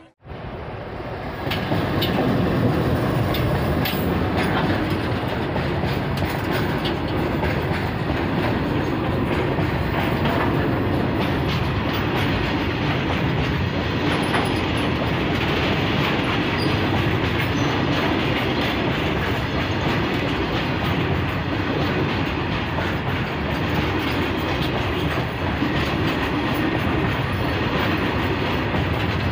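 Long freight train of open-top wagons rolling past close to the track. Its steel wheels clatter in a steady rumble, swelling in over the first second or so.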